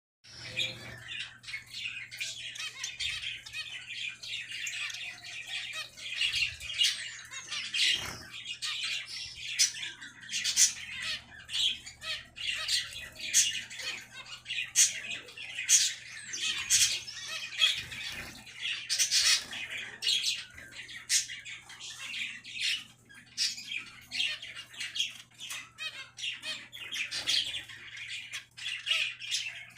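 Mixed flock of zebra finches and Bengalese finches calling all together: a steady chatter of many short, overlapping chirps, with louder single calls standing out every second or so.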